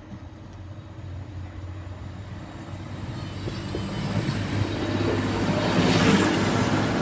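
Class 185 diesel multiple unit approaching the level crossing, its engine and wheel noise growing steadily louder until it is close by near the end.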